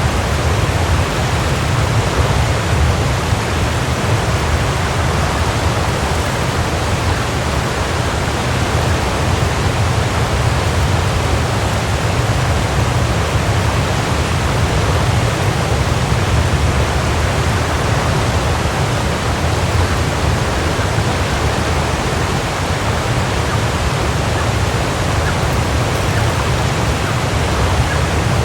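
Waterfall: a steady, full rush of falling water, heaviest in the low end.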